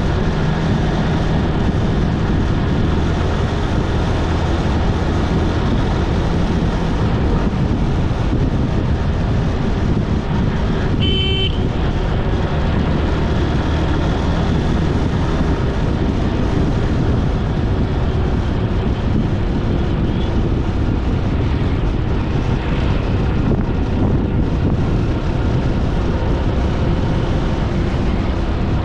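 A vehicle engine running steadily under loud road noise on the move, with a short horn beep about eleven seconds in.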